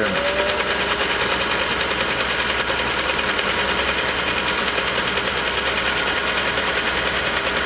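Vintage Singer sewing machine running steadily at speed, stitching a small decorative pattern from a top hat cam (cam number 20) pushed fully into place.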